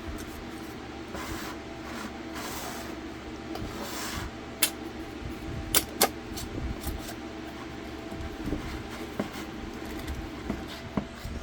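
Metal screw bands being turned onto glass canning jars, giving a few sharp clinks, loudest about midway, over a steady background hum.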